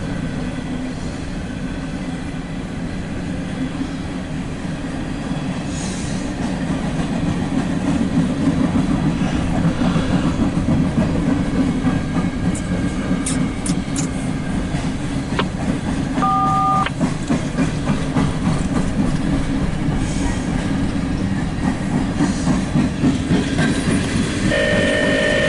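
An empty CSX coal train's hopper cars rolling by with a steady rumble and the clickety-clack of wheels over rail joints. It grows louder about eight seconds in.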